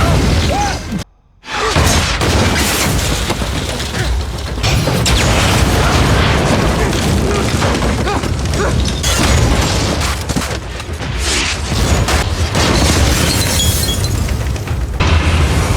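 Drama soundtrack of a disaster scene: a heavy rumbling boom with crashing and shattering, mixed with voices and music. The sound cuts out abruptly for a moment about a second in, then the rumble resumes.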